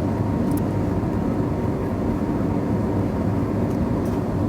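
Steady engine and airflow noise inside a jet airliner's cabin, climbing just after takeoff.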